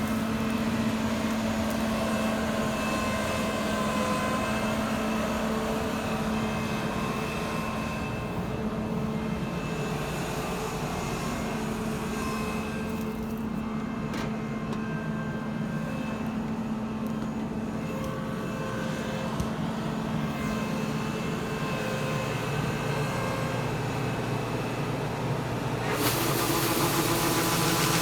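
A tractor's diesel engine running steadily, heard from inside the cab. About two seconds before the end the engine sound grows louder and brighter.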